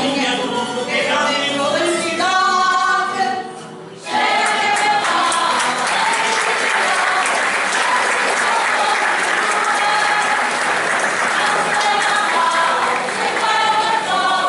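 A group singing together stops about four seconds in, and an audience breaks into applause that runs for roughly nine seconds. The singing starts again near the end.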